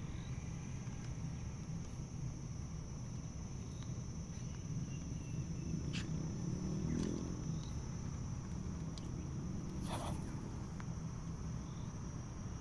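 Steady high-pitched insect drone, like a cricket or cicada, held on one note, over a low background rumble with a few faint clicks.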